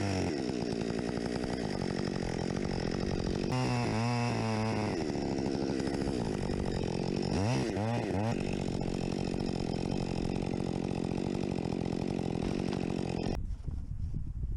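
Chainsaw running, revving up and down a few times as it cuts. The saw stops abruptly about a second before the end, leaving quieter, irregular noise.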